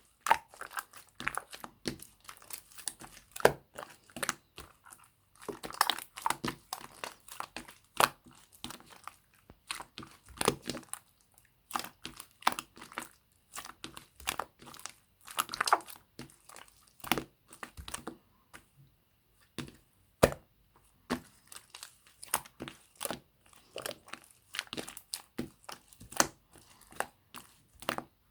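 Clear slime with mixed-in add-ins being squeezed and folded by hand, giving irregular crackles and sharp clicky pops in quick clusters with short pauses.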